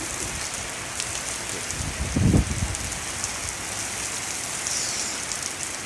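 Steady rain from a severe thunderstorm falling, with a short, louder low sound about two seconds in.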